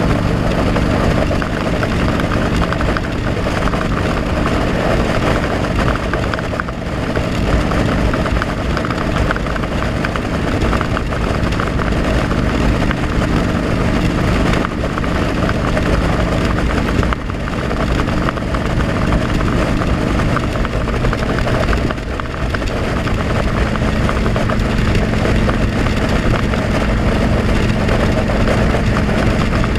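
Motorcycle engine running while riding, with heavy wind rush on a helmet-mounted camera. The engine note dips briefly three times and settles at a different pitch after the last dip.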